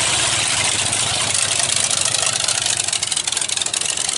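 Loud car engine running with a rapid, even pulsing rumble from the exhaust as the car drives up. It holds steady without clear revving.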